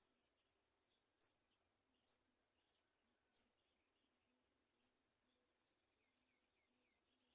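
Five short, high-pitched bird calls spaced about a second apart, with fainter chirping of other birds behind them.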